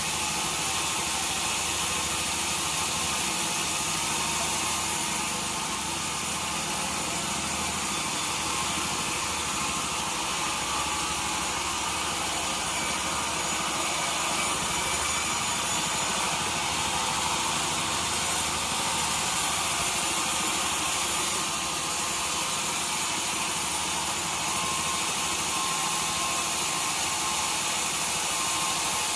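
Sawmill machinery running steadily, a continuous engine-and-saw noise with no breaks or distinct knocks.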